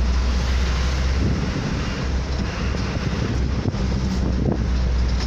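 Wind buffeting the microphone over a steady low rumble of vehicles on the move in traffic.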